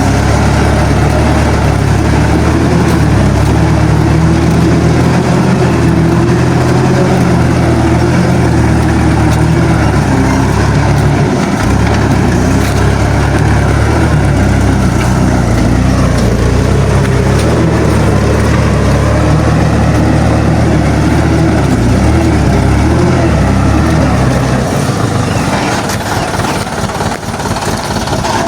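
Heavily loaded light truck's engine running steadily at low speed as the truck crawls over a rough, rutted dirt road; the engine note drops and changes near the end.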